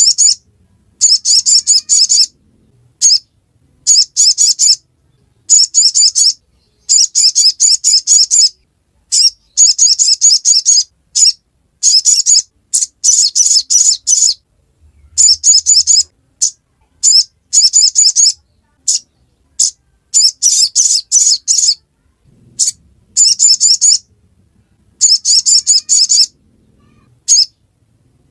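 Sogon (sogok ontong, a spiderhunter) giving its rapid, high-pitched chattering 'ngriwik' song in bursts of about a second, repeated again and again with short silent gaps between.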